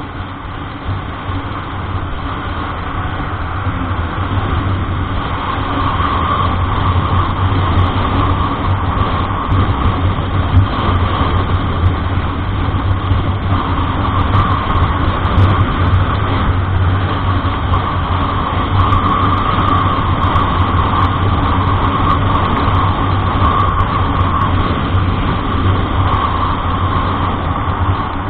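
A road vehicle on the move: steady engine hum and road noise that build over the first several seconds and then hold.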